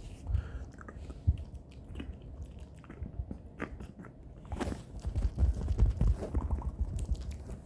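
ASMR mouth sounds close to the microphone: quick clicks and smacks of the mouth, getting busier and louder about halfway through.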